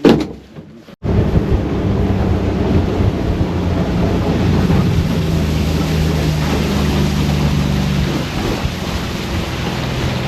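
Boat's outboard motor running steadily with a low, even hum that shifts slightly in pitch, under heavy wind noise on the microphone and water rush. It starts abruptly about a second in, after a brief voice sound.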